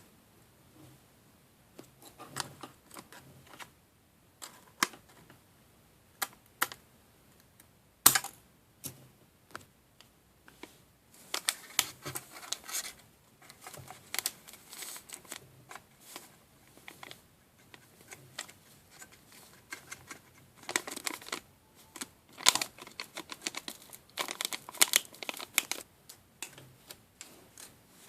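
Irregular light clicks, taps and scraping of small plastic pieces of a DIY candy kit being handled, with busier stretches of rapid clicking.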